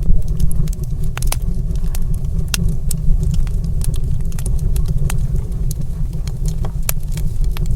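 Wood fire in a stone fireplace crackling, with irregular sharp pops several times a second over a steady low rumble.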